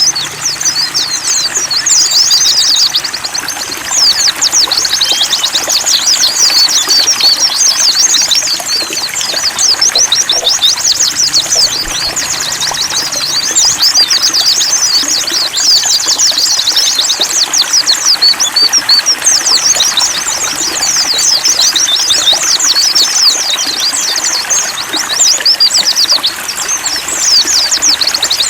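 White-eyes (pleci) singing a continuous rapid, high twittering over a steady trickle of running water.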